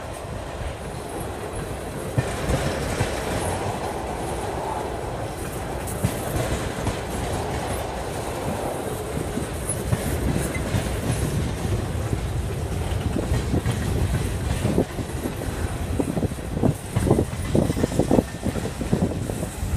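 Vermont Railway freight train's tank cars and covered hoppers rolling past with a steady rumble of wheels on rail. Wheel clacks over the rail joints come more often and louder in the last third.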